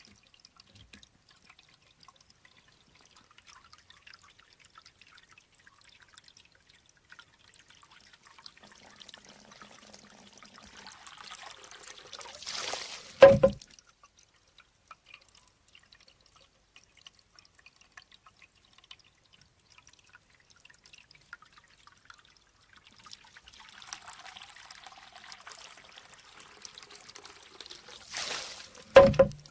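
Bamboo shishi-odoshi fountain: water trickles into the tube, swells into a pouring spill as the tube tips, then the bamboo strikes its stone with a single sharp knock. This cycle completes twice, about fifteen seconds apart, with faint trickling between.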